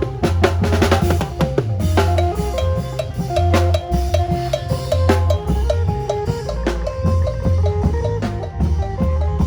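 Isan phin band playing an upbeat lam phloen groove: the phin (Isan lute) picks quick runs of short notes over a drum kit and a heavy pulsing bass line.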